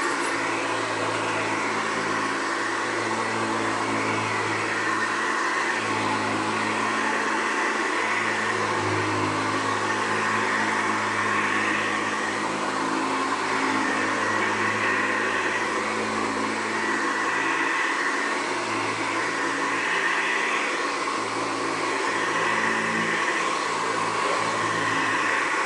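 1972 Hoover Ranger upright vacuum cleaner running on its new drive belt: a steady, noisy motor whine that swells and fades slightly every couple of seconds.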